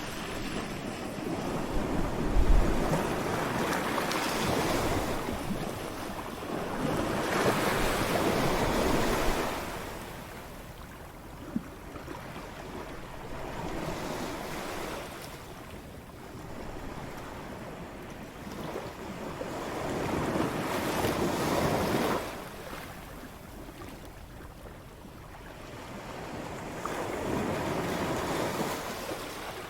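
Ocean surf: waves break and wash up one after another, each surge of noise building over a few seconds and then falling away into a quieter hiss before the next.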